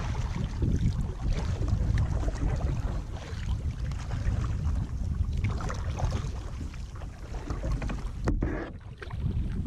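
Kayak paddle strokes dipping and splashing in the water every couple of seconds, over a steady low rumble on the action camera's microphone.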